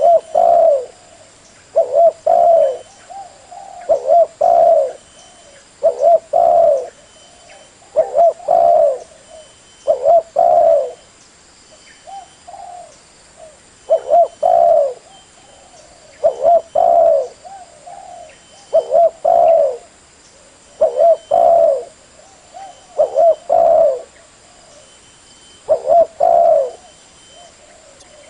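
Spotted dove cooing: the same short coo phrase repeated about every two seconds, loud and close.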